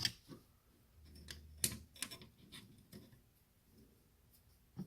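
Scattered light clicks and taps of hand tools and small parts being handled while an old floppy drive is taken apart.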